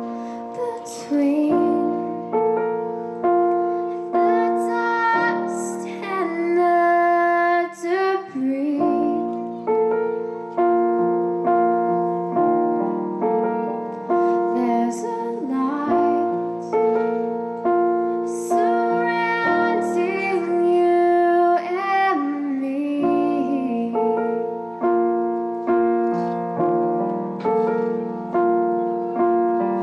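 A slow song: piano chords struck about once a second under a woman's singing voice that comes in phrase by phrase.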